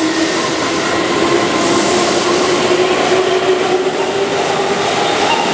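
Keihan electric commuter train moving along a station platform: steady wheel and running noise with a motor whine that climbs slowly in pitch as the train gathers speed.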